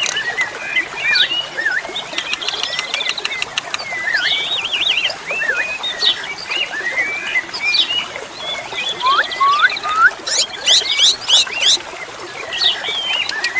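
Asian pied starlings singing: a busy, varied run of whistles and chirps, with quick rising whistles and a flurry of rapid sharp calls about ten seconds in.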